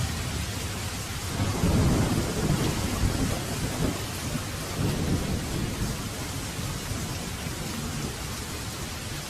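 Heavy rain falling steadily, with a roll of thunder rumbling through it about a second and a half in, loudest around two seconds and dying away by about five and a half seconds.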